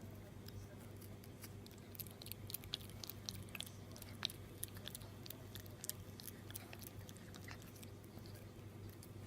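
Shiba Inu puppy chewing on a dog chew, its teeth making irregular sharp clicks and crunches, over a steady low hum.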